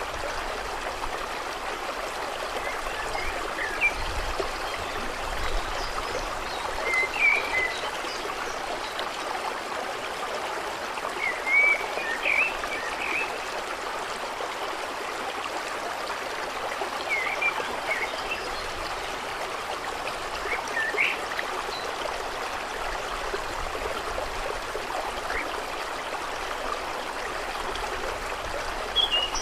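Water running steadily with an even rush, with short high bird chirps every four or five seconds.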